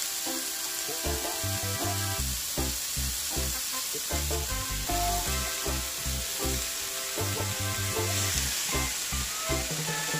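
Sliced bell peppers and onions sizzling in oil and butter in a cast-iron skillet as shredded cabbage is piled in by hand. Background music with a steady beat plays over it.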